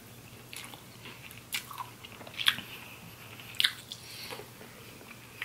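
Close-miked chewing of seafood in butter sauce, with a few sharp, wet mouth clicks and smacks spaced about a second apart.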